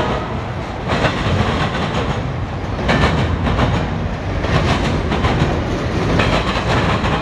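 Norfolk Southern double-stack intermodal train passing at close range: a steady rumble of steel wheels on rail, with a loud clack every second or two as the well cars' wheel sets cross rail joints.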